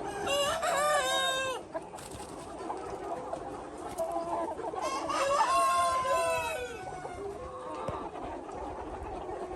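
Chickens: a rooster crows twice, once near the start and again about five seconds in, over steady clucking from the flock.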